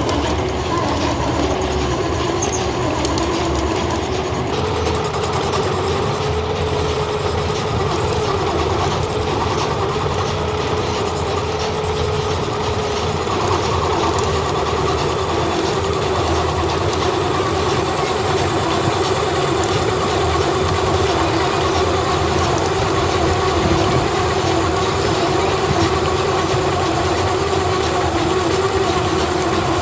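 Heavy factory machinery running steadily: a continuous mechanical din with a few held tones and a rattling texture.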